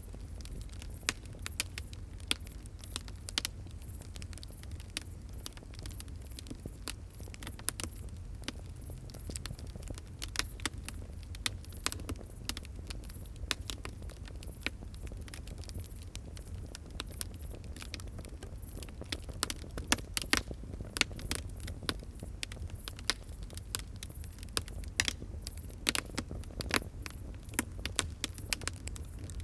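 A wood fire crackling: many quick, irregular pops and snaps over a steady low rumble of burning.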